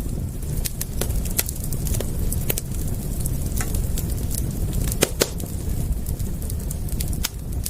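Wood fire crackling, with sharp irregular pops over a steady low rumble; a louder pair of pops comes about five seconds in.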